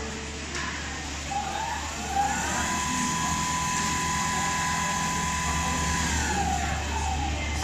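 Motor drive of an automatic CNC sewing machine whining: the pitch rises about two seconds in, holds steady for several seconds, then falls away, over a steady low hum.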